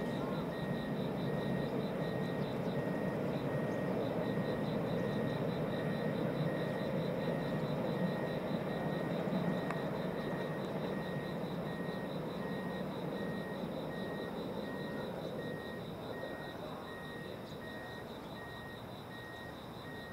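A container freight train rumbling on the rails as it draws away, fading over the last several seconds. A steady electronic beep repeats evenly throughout, over a faster high pulsing tone.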